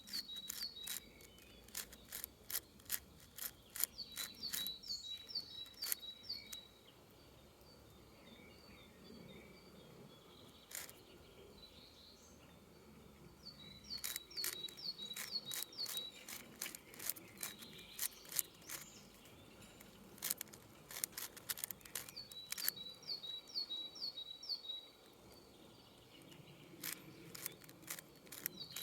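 A 6x6 Rubik's cube being turned, its plastic layers clicking in quick runs of clicks with pauses between. A songbird repeats a short phrase of evenly spaced high notes every several seconds.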